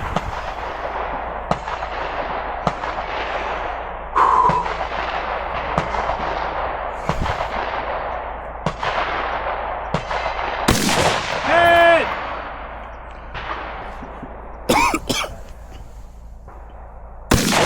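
Firearm shots in an irregular string, roughly one a second, each followed by a long echoing tail; the shots thin out about 11 s in. A short held pitched tone or call sounds twice, about 12 s in and at the very end.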